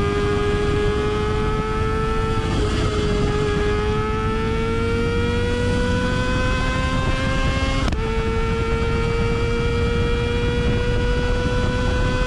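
Kawasaki ZX25R's 249 cc inline-four running at very high revs through a Yoshimura R77-style exhaust, pulling hard with the pitch climbing steadily and dipping briefly at two upshifts, about two and a half seconds in and again near eight seconds.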